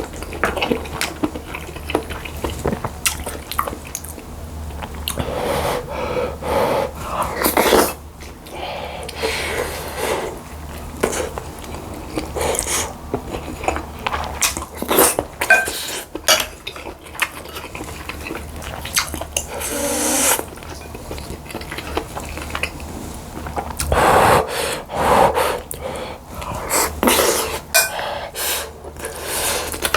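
Close-miked eating: chewing of bulgogi rice and seaweed-soup rice, with irregular clicks of a spoon against the bowls.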